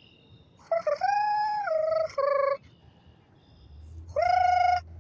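A person's voice making two long, drawn-out pitched calls at the birds, imitating them. The first call lasts nearly two seconds and steps down in pitch twice; the second is shorter, about four seconds in.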